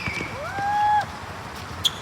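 Sneakers squeaking on a gym floor during a basketball game: a loud squeal that rises and holds for about half a second, then a short sharp squeak near the end.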